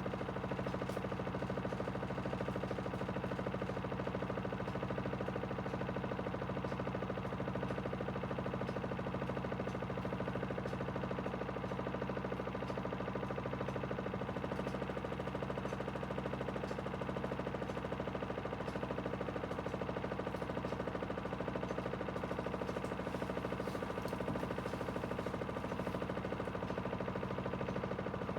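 Aidoo 1 kg mini washing machine's direct-drive motor spinning the drum at a steady speed in its final spin, a constant, even hum.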